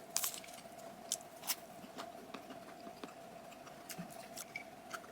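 Quiet chewing of a kkwabaegi (twisted doughnut) with a crunchy topping: a few scattered small crunches and clicks of the bite, over a faint steady hum.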